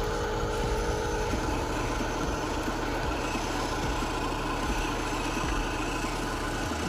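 Radio-controlled construction vehicles running with a steady, engine-like hum. A few steady tones fade out about a second in.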